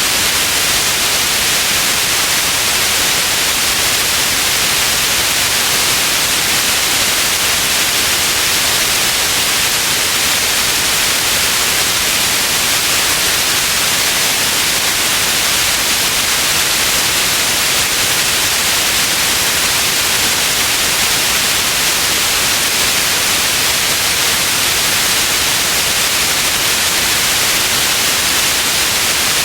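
Steady white noise, a constant even hiss brightest in the high treble, with no change throughout.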